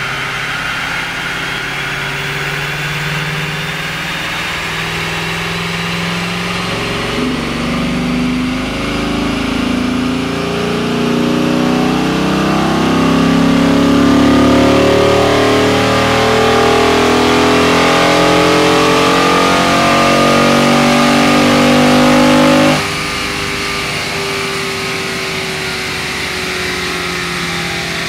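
Dodge Charger SRT8 Super Bee's 6.1-litre Hemi V8 on a chassis dyno, making a long full-throttle pull in fifth gear: after a steady run it builds from about seven seconds in, its pitch and a high whine climbing slowly for some fifteen seconds. Near the end it lets off abruptly and drops back to a quieter steady run.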